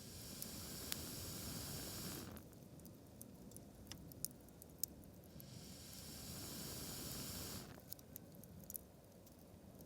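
Wood fire burned down to embers, with faint scattered ticks and pops and two spells of steady hissing, each about two and a half seconds long and a few seconds apart, that start and stop abruptly.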